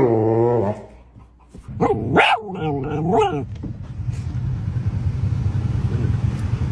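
A dog vocalizing in drawn-out, wavering howl-like calls: one that trails off in the first second, then two more between about two and three and a half seconds in. After that a steady low rumble fills the rest.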